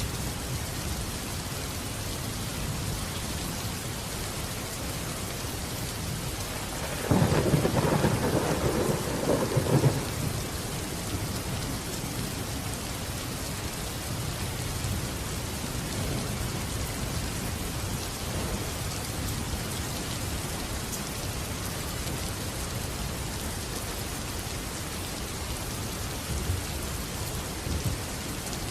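Steady heavy rain falling, with a loud crack and rumble of thunder about seven seconds in that lasts about three seconds.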